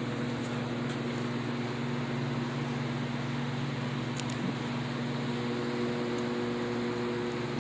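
Steady machine hum with a constant hiss, holding several low tones without change: the sound of a fan or similar motor-driven appliance running.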